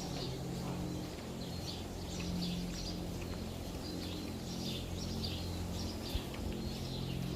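Small birds chirping repeatedly in a barn over a steady low machine hum.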